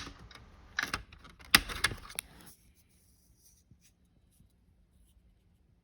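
Sharp clicks and knocks of hard plastic as a Sprinter T1N dash vent is worked out of the dash, a handful of them in the first two and a half seconds, then near silence.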